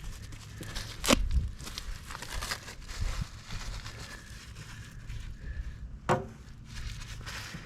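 Crinkling, rustling handling noises with two sharp clicks, one about a second in and one about six seconds in.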